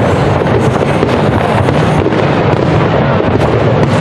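Aerial fireworks display: many shells bursting in quick succession, their bangs and crackles running together into a loud, unbroken din.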